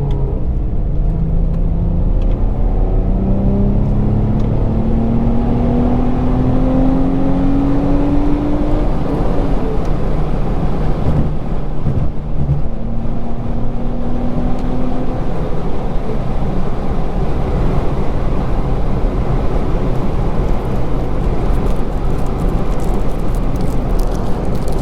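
Infiniti G35 coupe's VQ35DE 3.5-litre V6 through a Z1 touring exhaust, pulling under acceleration: the engine note climbs steadily in pitch for about nine seconds, falls away, climbs again briefly a few seconds later, then settles into a steady cruise with engine and road noise.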